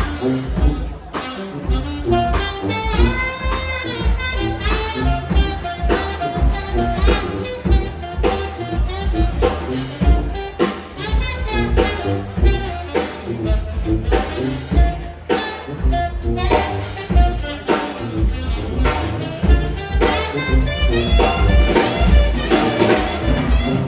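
Navy brass band playing jazzy music live: horns holding and bending notes over a drum kit keeping a steady beat.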